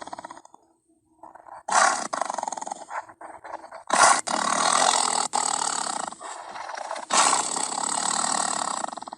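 Tiger roaring and growling in a run of loud, rasping calls: one fades out at the start, then after a short pause new roars start about two, four and seven seconds in.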